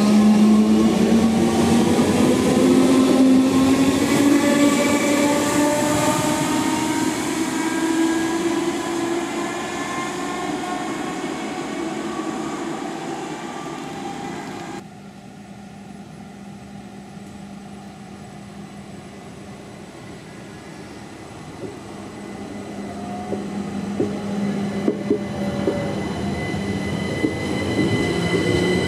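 A train pulling out, its drive whine climbing slowly in pitch as it gathers speed and fades. After a sudden cut about halfway, another train draws closer with a steady whine and a few clicks of wheels over rail joints.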